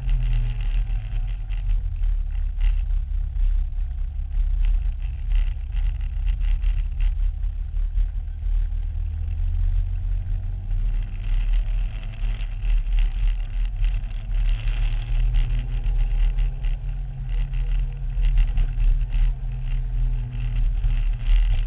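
Small engine of a Promotive R1 mini bike running near idle with an uneven beat. Its speed sags about two seconds in and picks back up around eleven seconds. The engine has a fault that its owner cannot identify.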